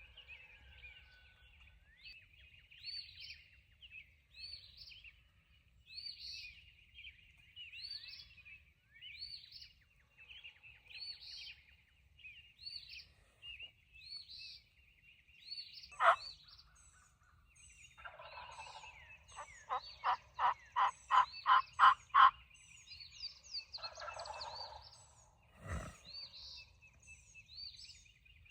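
Series of about ten turkey yelps, evenly spaced and getting louder over four seconds, followed shortly after by a short rough burst, over small birds singing a repeated rising note. A sharp click comes before the yelps and a low thump after them.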